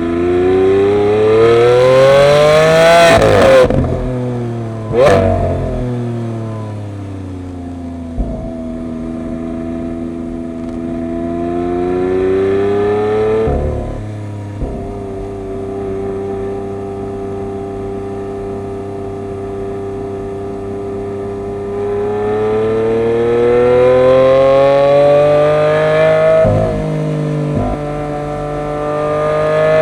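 Lamborghini Aventador LP700-4's V12 engine pulling hard under acceleration. Its pitch climbs and then drops sharply at each upshift, four times, with a steady cruising stretch in the middle. A sharp crack comes about five seconds in.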